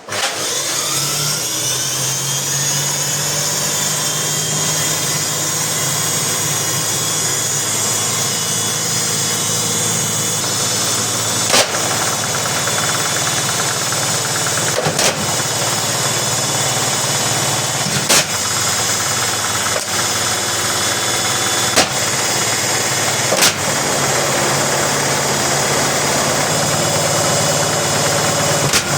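LG washing machine running with a brick in the drum: the motor whine rises over the first couple of seconds and then holds steady over a low hum. From about the middle on, five loud bangs break in a few seconds apart.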